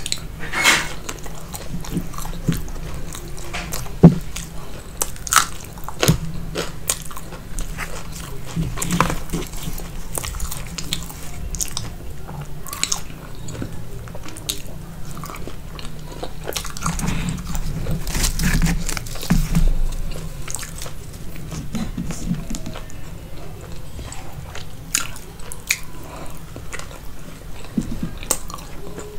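Close-miked chewing and biting of food: irregular sharp crunches from a crisp fried snack mixed with softer, wetter chewing of roti and curry. The loudest crunch comes about four seconds in, with a busier run of chewing later on.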